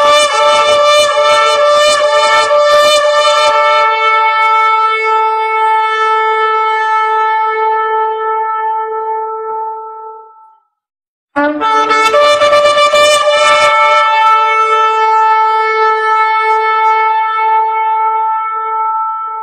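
Shofar sounding two long blasts. Each starts rough and buzzy, then settles into a clear steady tone. The first blast holds for about ten seconds and fades out, and the second begins about eleven seconds in.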